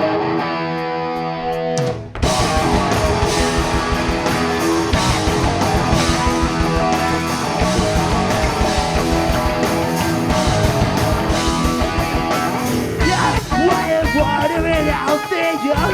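Live rock band starting a song: an electric guitar chord rings on its own for about two seconds, then drums and bass come in and the full band plays the instrumental intro.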